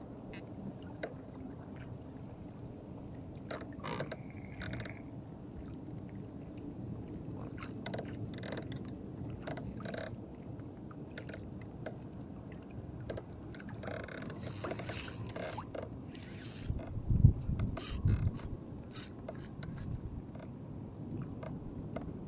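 Scattered mechanical clicks and rattles, bunched in quick runs in the second half, with a heavier knock or thump near the end, over a steady low rumble.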